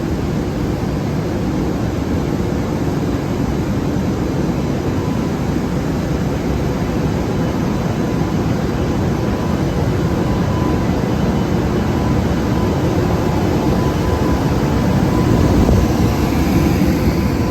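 Freight train hauled by an EH200 electric locomotive pulling out, a steady heavy rumble with a thin steady whine, swelling louder shortly before the end.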